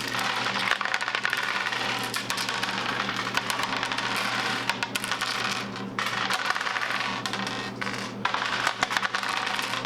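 Several people rolling handfuls of dice on a table at speed: a dense, continuous clatter of many small dice, with short pauses between rolls.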